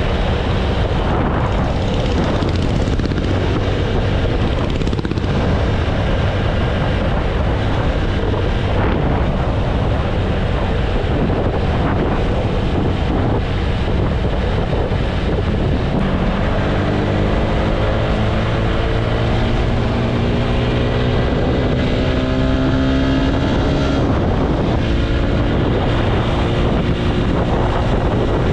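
Wind buffeting the microphone over the running engine of a TVS Apache RTR 160 4V single-cylinder motorcycle cruising at highway speed. From about halfway through, the engine note climbs steadily in pitch for several seconds as the bike gains speed.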